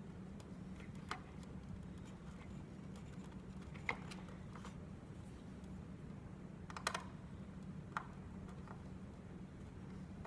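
A few scattered light clicks and taps from small plastic parts and screws being handled during reassembly of a Big Mouth Billy Bass, the clearest about four seconds in and near seven and eight seconds, over a faint steady hum.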